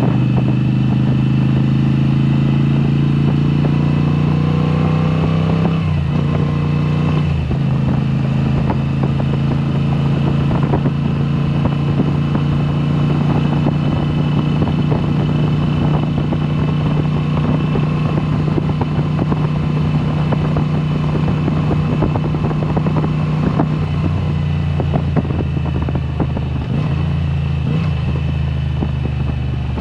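2022 Moto Guzzi V7 Special's air-cooled V-twin running through a Mistral exhaust with the dB killers removed, under way. It pulls up through the revs, shifts gear about six and seven and a half seconds in, then holds a steady cruise with a slight change in engine note near the end.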